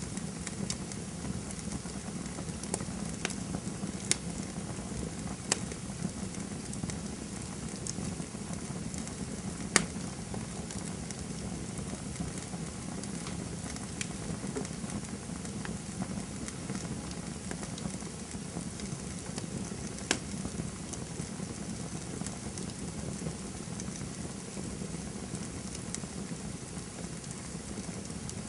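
Wood campfire burning: a steady hiss of flames with scattered sharp pops and crackles from the burning wood. The loudest pop comes about ten seconds in, and the pops grow sparser after that.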